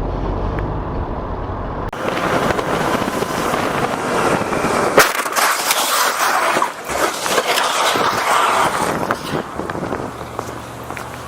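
A motorcycle crashes and slides along the road. About two seconds in, a low engine-and-wind rumble gives way suddenly to loud, continuous scraping and clattering of metal and plastic on asphalt, with a sharp knock about five seconds in. The scraping dies down near the end.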